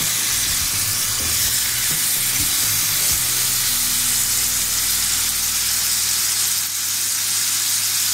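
Marinated chicken breasts sizzling in hot oil on a ridged grill pan: a steady frying hiss.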